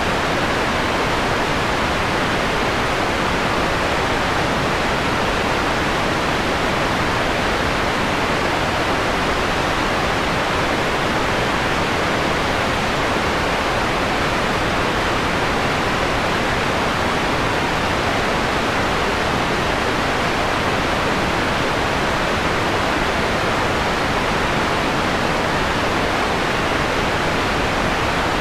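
Steady electronic white noise, filtered so that its highs are rolled off into a softer, mellower hiss.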